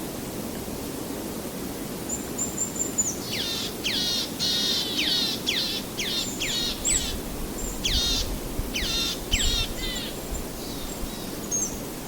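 Songbird singing: after about two seconds, a thin high note and then a rapid series of sharply down-slurred whistled notes, repeated in clusters. Underneath, a steady low rush of waves.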